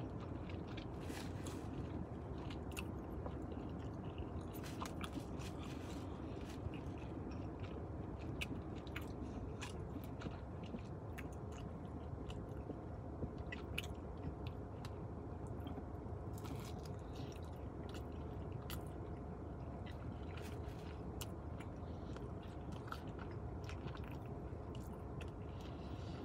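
A person chewing and biting into pizza close to the microphone: wet mouth clicks and smacks, scattered unevenly, with occasional crunches of the crust.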